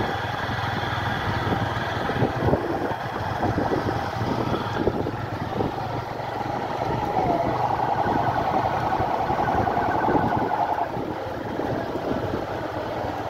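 Vehicle engine running steadily at low speed, with a warbling tone in the middle part.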